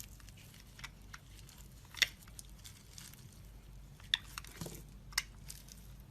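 Blade cutting into soap: scattered crisp cracks and crunches over faint scraping, the sharpest about two seconds in and again around four and five seconds in.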